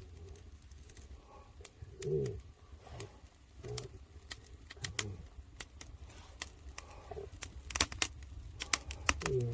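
A dove cooing in short, low calls every second or two, some sliding downward in pitch. Sharp clicks and crackles come between the calls, most of them near the end, over a steady low rumble.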